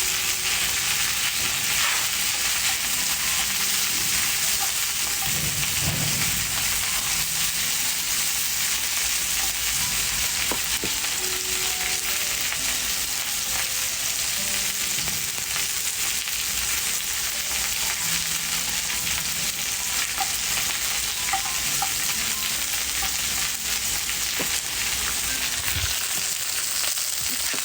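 Food frying in a pan, a steady dense sizzle with scattered faint crackles.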